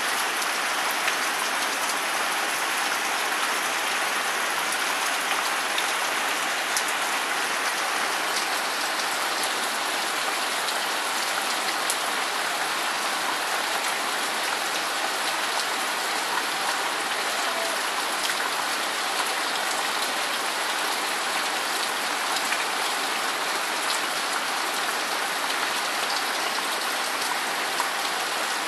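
Steady rain falling, with now and then a single louder drop striking close by.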